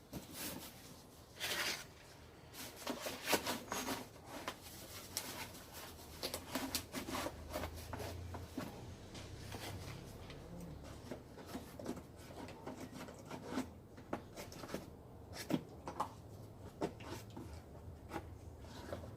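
Handling noise: scattered clicks, knocks and rubbing as objects are moved about.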